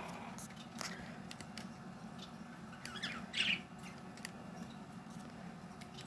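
Pet bird giving one short squawk about halfway through, among scattered light clicks and taps.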